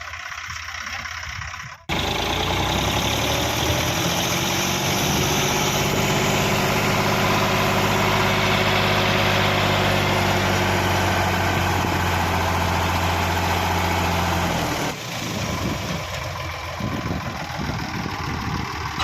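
Sonalika tractor's diesel engine idling, then suddenly running steadily at raised revs for about thirteen seconds, driving the hydraulics that tip the trailer of soil. It drops back to idle near the end.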